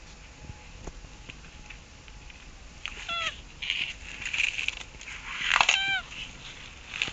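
Mating tortoise's calls: two short, slightly falling calls about two and a half seconds apart, with breathy puffs of noise between them.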